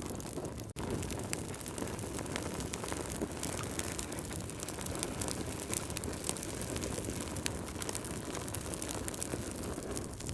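Fireplace fire crackling: a steady low rush of burning with frequent sharp pops and crackles scattered through it. The sound drops out for a moment less than a second in.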